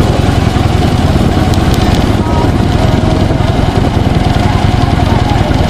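Motorcycle engine running steadily: a loud, even, low rumble with a dense rush of noise across the range.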